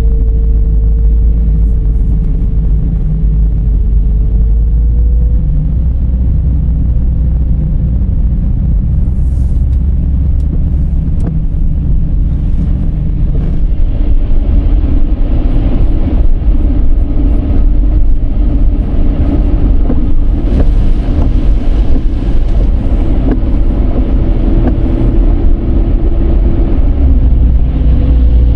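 Dodge Charger's 3.5-litre V6 and tyres while driving: a steady low rumble of engine and road noise with a faint held tone over it, getting a little louder and rougher about halfway through.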